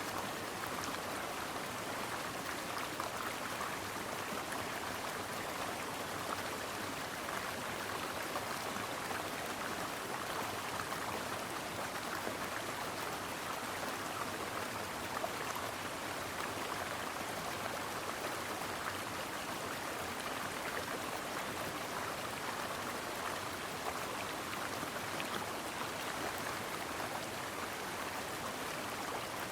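Brook water running steadily over rocks, an even rushing and babbling with no breaks.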